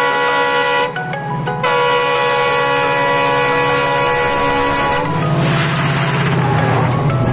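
Railway locomotive horn sounding a short blast, then a long steady blast of about three seconds, followed by a rushing rumble.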